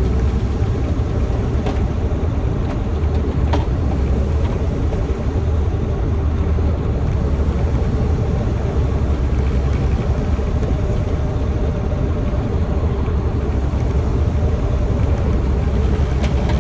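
Semi-truck driving at highway speed, heard inside the cab: a steady low drone of engine and road noise, with a few faint ticks.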